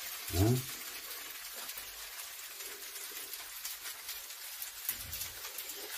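Beondegi (silkworm pupa) and egg fried rice crackling steadily in the hot frying pan on the stove, a fine even sizzle, with a brief voiced sound from a person about half a second in.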